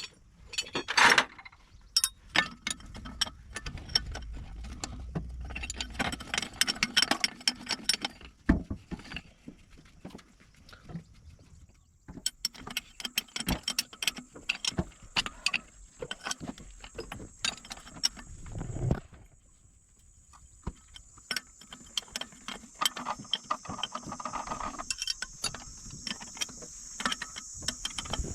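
Metal hand tools clinking and knocking against truck drivetrain parts in irregular clicks and clanks, the sounds of gearbox fitting work. A steady high-pitched tone comes in about halfway through.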